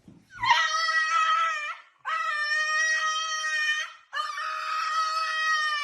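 Dog howling: three long, steady, high notes in a row, each about a second and a half, with short breaks between.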